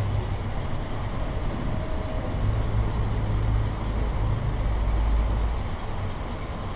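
A boat engine running steadily at a low pitch, pushing a small catamaran along.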